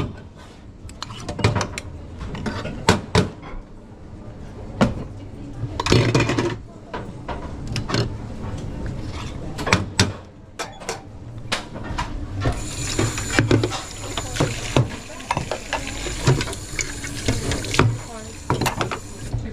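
Clatter of dishes, cups and cutlery being handled in a café kitchen, with repeated sharp knocks. About two-thirds of the way through a steady hiss starts and runs on under the clatter.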